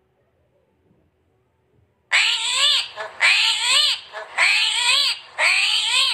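An armadillo calling: four loud cries about a second apart, each rising and then falling in pitch, starting about two seconds in.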